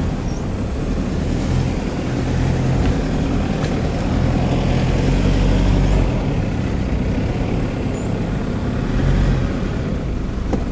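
A motor vehicle driving, its engine and road noise making a steady low rumble that swells slightly about halfway through.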